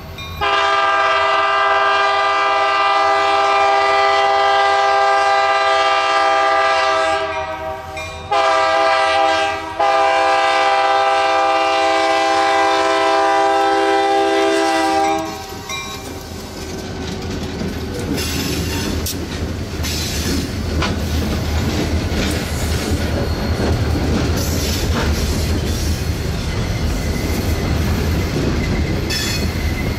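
A diesel locomotive's air horn sounds three blasts, long, short and long, as the train approaches, then the train rolls past with engine rumble and wheels clacking over the rail joints.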